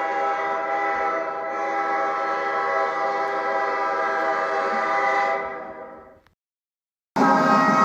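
Locomotive horn sounding one long, steady multi-note chime chord that fades out about six seconds in. After a second of silence, another locomotive horn starts abruptly near the end.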